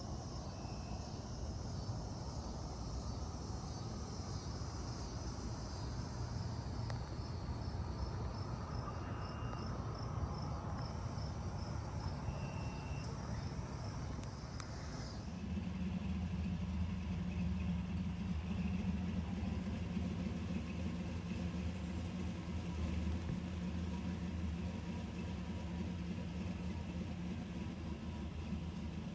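Steady low vehicle rumble. About halfway through it changes to a steadier drone with a held low hum.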